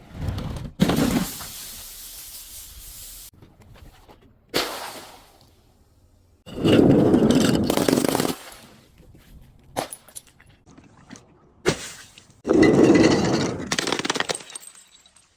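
Objects being crushed and broken, glass among them: sharp cracks and longer crunching, grinding stretches of a second or two, repeated several times.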